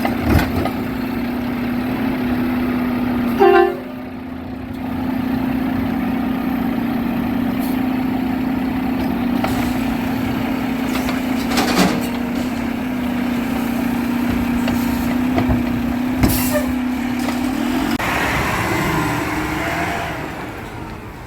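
Garbage truck running with a steady engine hum, broken by a few sharp metal bangs and a brief loud burst about three and a half seconds in. The hum stops about eighteen seconds in and the sound fades near the end.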